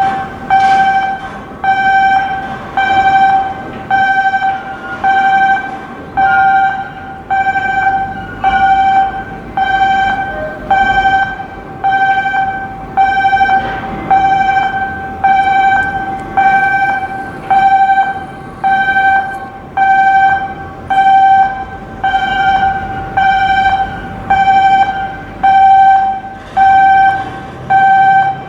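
An electronic warning alarm beeping steadily at one pitch, about once a second, over low background noise.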